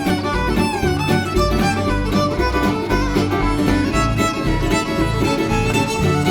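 Instrumental break of a country-bluegrass song: a fiddle plays the lead melody over strummed guitar and a steady bass beat.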